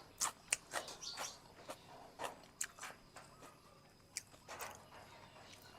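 Close-up mouth sounds of someone eating boat noodles: irregular wet clicks and smacks of chewing, several to a second.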